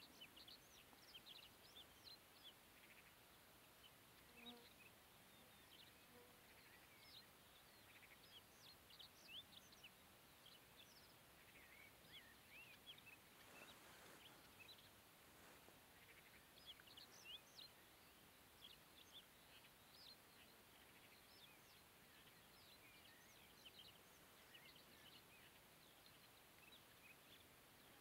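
Near silence: many short, faint, high chirps of distant birds scattered throughout, over the steady hiss of a camera's built-in microphone.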